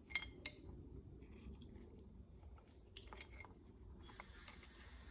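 Hands handling small carburetor parts: two sharp clicks just after the start, then faint scattered clicks and rubbing.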